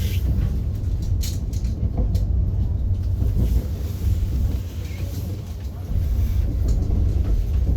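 Steady low rumble of a moving train heard from inside the carriage, with a few brief clicks early on.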